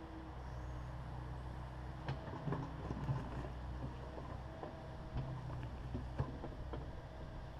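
Takeuchi TB260 excavator's diesel engine running steadily. From about two seconds in come scattered sharp knocks and clatters as the machine works broken concrete.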